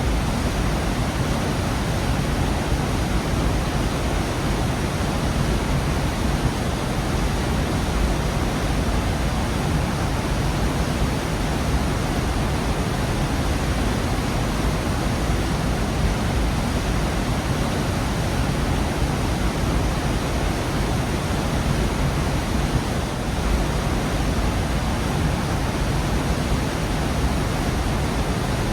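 Waterfall pouring into a rocky gorge: a steady, unbroken rush of falling water, heaviest in the low end.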